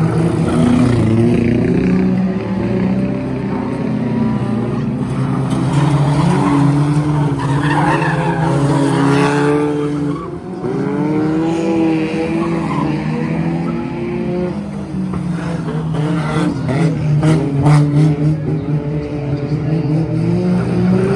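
Several banger racing cars' engines running hard around a shale oval, their pitch repeatedly rising and falling as they accelerate and back off, overlapping one another.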